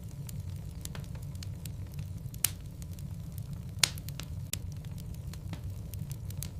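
Log fire burning in a fireplace: a steady low rumble of flames under frequent small crackles, with two louder pops about two and a half and four seconds in.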